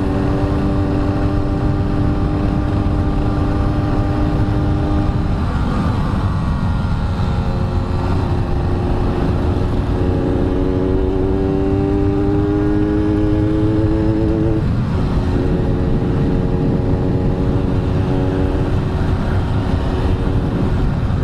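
Yamaha RX-King two-stroke single-cylinder engine running under way, its pitch climbing slowly and then breaking off a few times, about five and fifteen seconds in, as between gear changes, over heavy low wind rumble.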